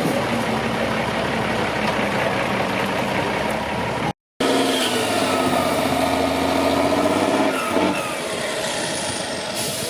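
Heavy off-road truck engine running. The sound drops out completely for a moment about four seconds in, at a cut, and then carries on with the engine note shifting in pitch.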